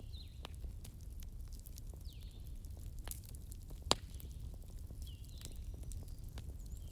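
Fireplace crackling: a steady low rumble of burning wood with scattered small crackles and one sharp pop about four seconds in.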